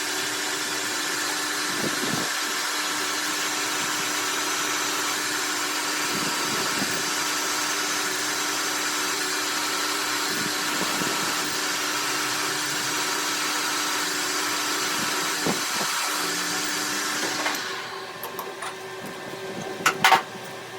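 A power tool running steadily, then stopping about 17 seconds in, followed by a few sharp knocks near the end.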